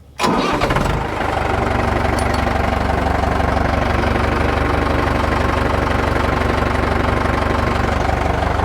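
Farm tractor engine starting: it catches almost at once, runs a little louder for about a second, then settles into a steady idle.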